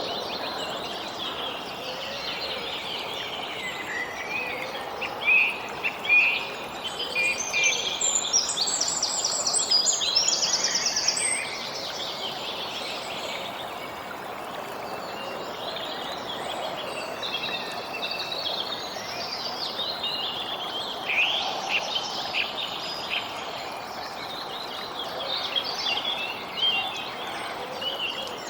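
Songbirds chirping and trilling, several calls overlapping, with a rapid trill about eight to eleven seconds in, over a steady background hiss.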